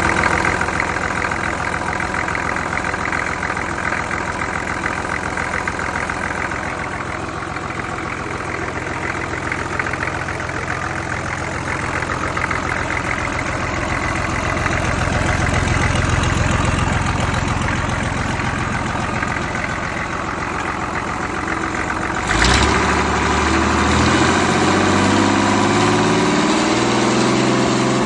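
Mitsubishi S6E six-cylinder diesel engine running steadily at idle. About 22 seconds in there is a sharp click, and the engine turns louder with a pitch that steps up and down.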